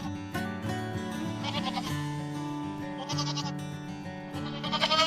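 Goat bleating, three quavering bleats about a second and a half apart, over steady background music.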